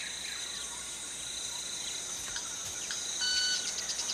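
Forest insects shrilling steadily at a high pitch. About three seconds in comes a short, pure high-pitched note, followed by a quick run of ticks: a manakin's peculiar display sound, made with its wings.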